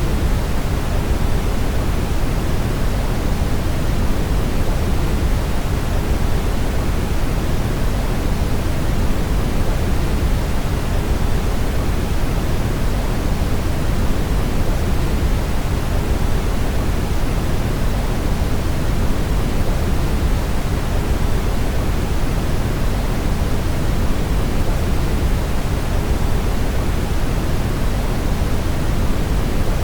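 Steady, unchanging brown noise: a smooth, deep hiss weighted toward the low end, with no breaks or other events.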